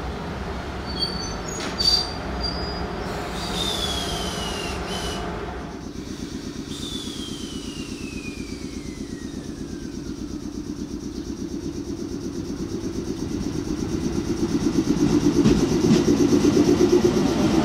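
JR East 719 series electric train running on the rails toward the listener, its wheels beating out an even clatter that grows much louder in the last few seconds. Two high whines fall in pitch in the first half.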